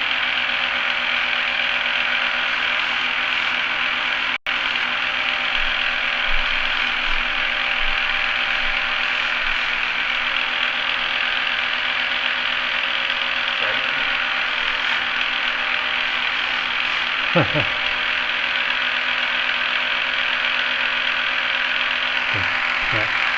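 Key-cutting machine running steadily, its motor humming as the cutter grinds through a key blank; the locksmith reckons the cutter is worn and cutting slowly. The sound breaks off for an instant about four seconds in.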